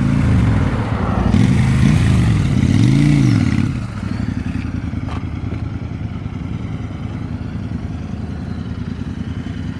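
Motorcycle engine revved in a few rising and falling blips, then settling to a steady idle after about four seconds.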